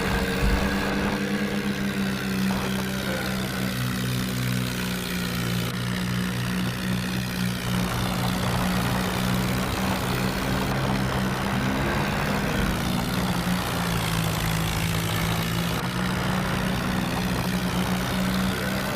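Tractor engine running steadily, its pitch shifting a few times.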